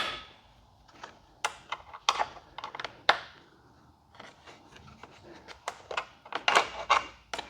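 Sharp clicks and short scrapes of a Phillips screwdriver working at a bolt in a motorcycle's plastic tail section, spaced out at first, then coming quicker near the end.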